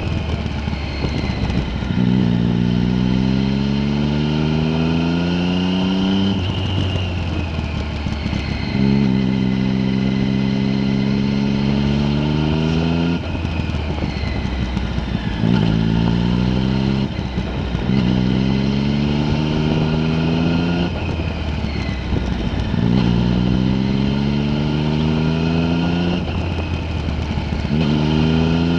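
Vehicle engine pulling hard again and again: its pitch climbs for two to four seconds, then drops back to a lower steady run, about six times over.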